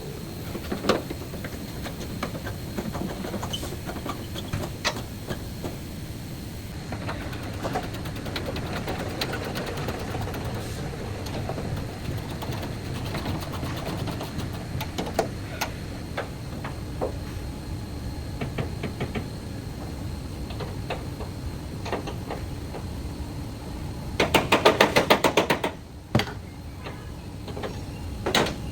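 Auto body workshop noise: scattered metal clanks and knocks over a steady background, with a loud run of rapid strikes lasting about a second and a half, about 24 seconds in.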